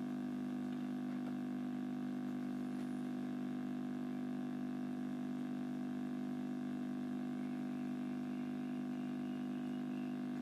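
A steady hum of several held low tones that does not change.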